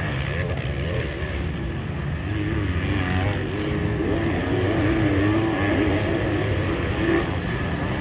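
Motocross motorcycle engines revving, their pitch rising and falling as the throttle opens and closes.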